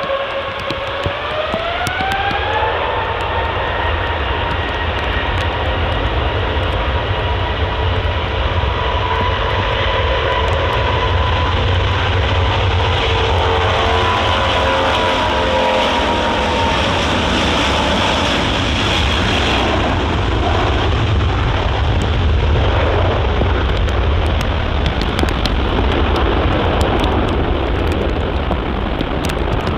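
Boeing 727's Pratt & Whitney JT8D turbofan engines spooling up, their whine rising in pitch over the first few seconds, then holding at high power as a loud, steady whine over a deep roar. After about seventeen seconds the whine fades and a broad roar carries on.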